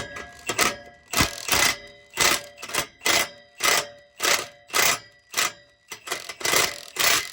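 Repeated metal-on-metal strikes, about three a second, with a ringing tone, as a tool beats on a rusted exhaust part to work it loose.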